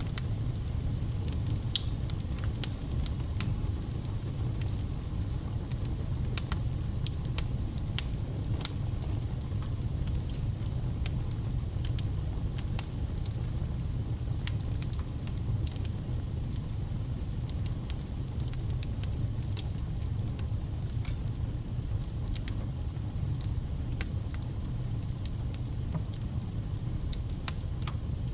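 Wood fire burning: a steady low rumble of flame with frequent sharp crackles and pops from the burning logs.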